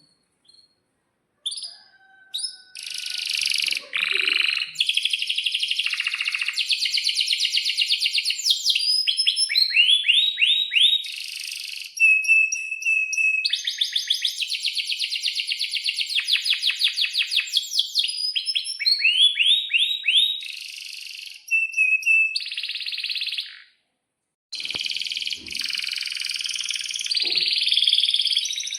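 Domestic canary singing a long, fast song of rapid trills and repeated chirps, with short breaks.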